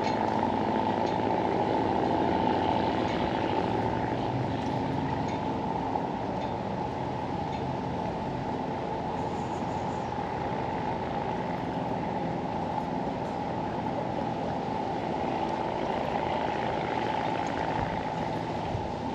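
Steady low outdoor rumble with no clear events, a few faint ticks over it.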